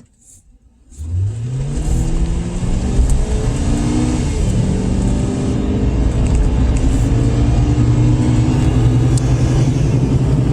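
Car engine accelerating hard, starting about a second in, rising in pitch over a few seconds and then holding a steady, loud drone.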